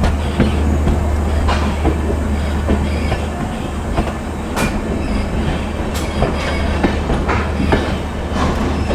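Passenger train running at about 60 km/h, heard from inside a coach: a steady low rumble with irregular clacks and knocks of the wheels over the rails.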